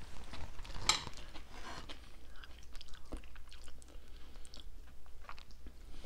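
Close mouth sounds of someone chewing a mouthful of ground-beef, cheese and lettuce casserole, with soft crunches and small wet clicks. About a second in there is a brief sharp rustle.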